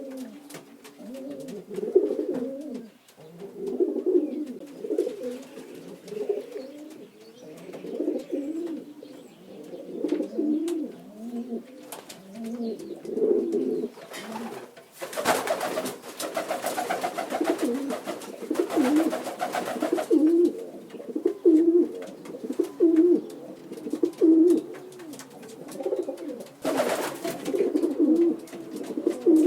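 Domestic pigeons cooing steadily, many low calls overlapping and repeating about once a second. Twice a louder burst of hissing noise cuts in, a long one about halfway through and a short one near the end.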